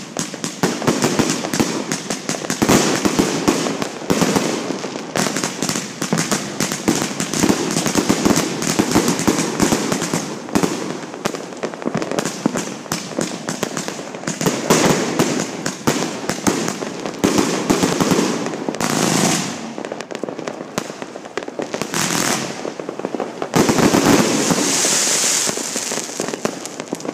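Fireworks going off in a near-continuous barrage of bangs and crackles, with a couple of brief lulls and a loud burst near the end.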